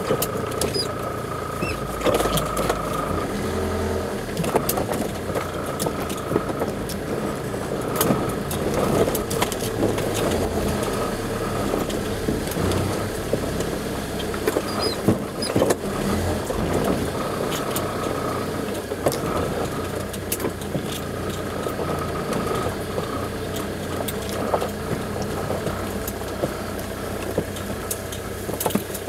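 Off-road vehicle's engine running at low speed, heard from inside the cabin, with scattered knocks and rattles as the vehicle crawls over rough ground.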